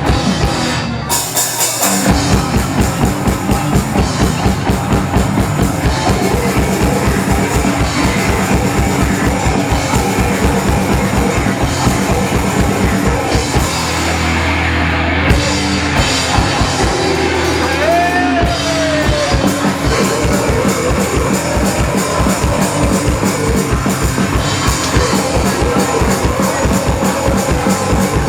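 Rock band playing live, with a fast, driving drum-kit beat and distorted guitars. The band drops out briefly about a second in, then comes back in.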